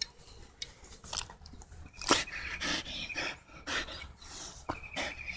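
A dog close to the microphone making short, irregular panting and snuffling noises as it moves about.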